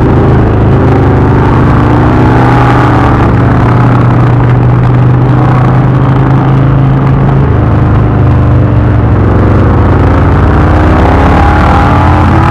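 Indian V-twin motorcycle running at road speed, with steady wind and road rush; the engine pitch drifts up and down a little as the throttle changes.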